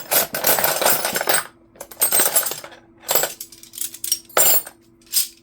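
Metal wrenches clinking and clattering as they are rummaged through: a dense rattle for about a second and a half, then four separate clinks.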